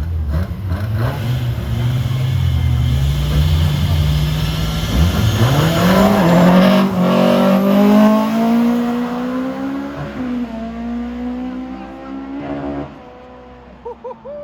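Car engine at full throttle in a drag race: a low rumble, then the engine note climbing steadily as it pulls hard, with a brief drop about ten seconds in like a gear change. The engine note stops abruptly near the end.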